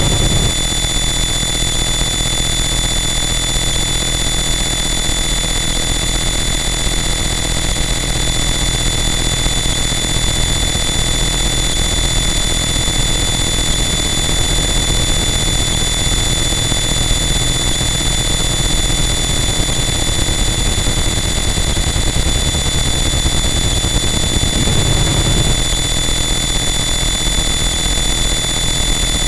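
Harsh noise wall: a dense, static wall of loud distorted noise with steady high whistling tones and a low rumble, barely changing, with a brief low swell near the end.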